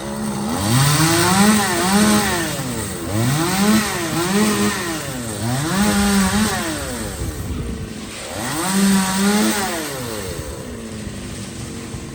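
Chainsaw engine revving up, holding at high speed and dropping back, several times over: a tree worker opening and closing the throttle while cutting branches.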